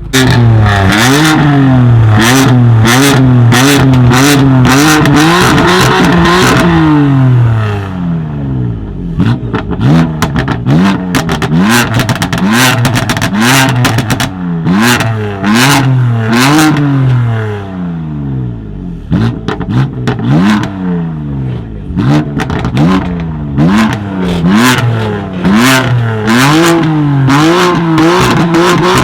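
A tuned car's engine revving loudly through its exhaust. For the first seven seconds the revs are held high and bounce up and down quickly; after that come repeated throttle blips, each rising and falling, with a run of sharp cracks and pops from the exhaust.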